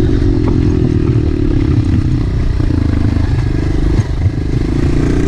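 Dirt bike engine running while being ridden, its note shifting up and down with the throttle, with a brief drop about four seconds in.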